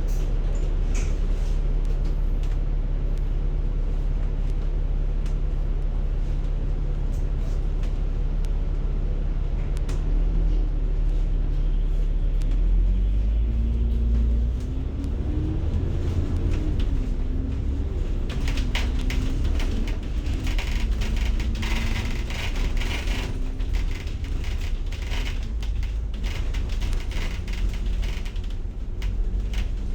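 Inside a moving city bus: the engine and drivetrain running with a steady low rumble. About twelve seconds in, a whine climbs in pitch and wavers as the bus pulls away and speeds up. Rattling and clicking from the cabin come and go in the second half.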